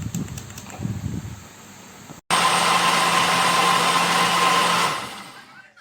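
Electric countertop blender motor switched on and running at a steady speed with a low hum for about two and a half seconds, then winding down. Quieter handling sounds come before it.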